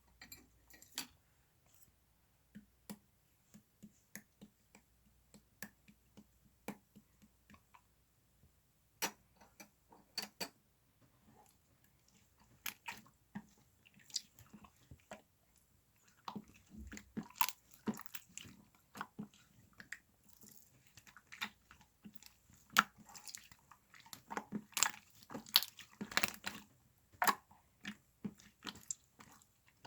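Close-up crunching and chewing clicks, scattered at first and coming thick and fast from about halfway.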